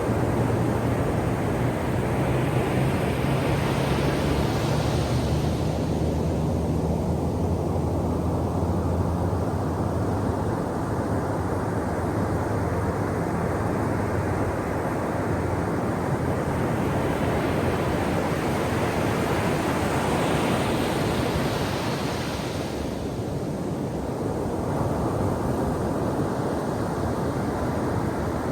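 Ocean surf washing on a shore: a steady rush of water that swells twice as waves break, a few seconds in and again about twenty seconds in. A low steady hum runs beneath it for the first ten seconds or so.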